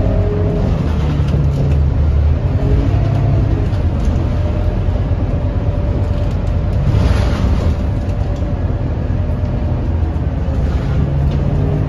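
Scania K230UB city bus's five-cylinder diesel engine running steadily under way, with a brief hiss about seven seconds in.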